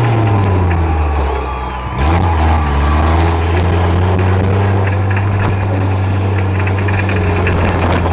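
Big-displacement pro-arena truck engine running loud and low; its pitch sags over the first two seconds, picks up sharply about two seconds in, then holds at a steady high idle.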